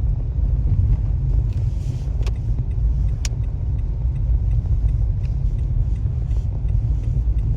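Steady low rumble of a car's tyres and engine heard inside the cabin while driving on a snowy highway, with a few sharp clicks.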